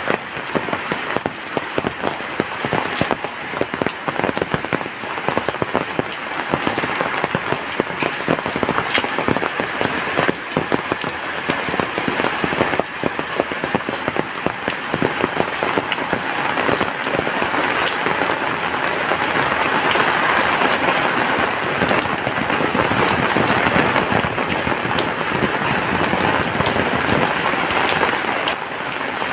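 Heavy rain falling steadily, a dense patter of drops striking surfaces, growing a little heavier past the halfway point.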